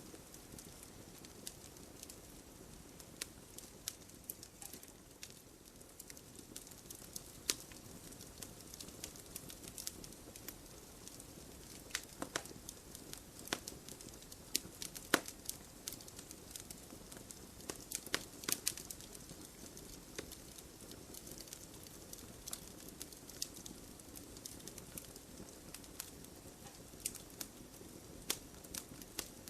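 Wood fire in an open fireplace crackling: irregular sharp pops and snaps, now and then a louder one, over a soft steady hiss.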